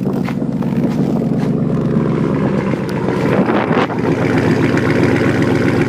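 2001 GMC 2500 HD engine running steadily after a cold start, heard through a straight-piped exhaust with no catalytic converters. Its tone changes slightly about three seconds in.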